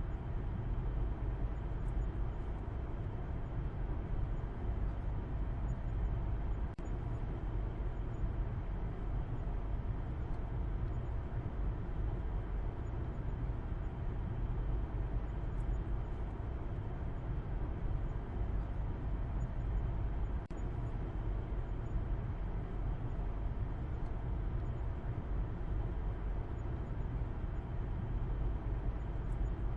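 Continuous car noise used as white noise: a steady, even low rumble with a fainter hiss above it, unchanging throughout.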